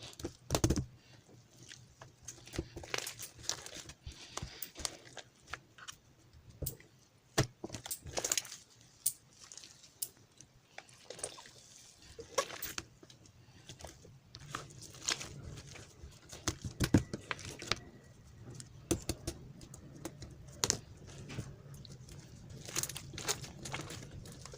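Clear slime being squeezed and kneaded by hand with colourful pearly bead topping worked into it: irregular crunching and crackling with sharp popping clicks.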